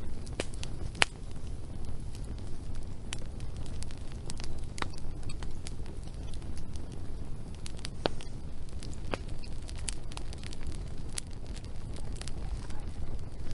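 Wood fire burning, with irregular sharp crackles and pops over a steady low rush of flame; one louder pop about a second in.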